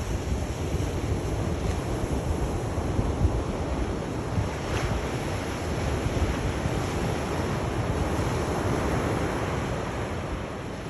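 Sea waves surging and washing on the shore in a continuous surf with a deep low rumble. A wave's wash swells about eight seconds in, then eases near the end.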